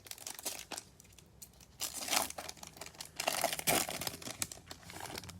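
A foil trading-card pack wrapper being torn open and crinkled by hand, in irregular crackling bursts that are loudest about two seconds in and again a little past the middle.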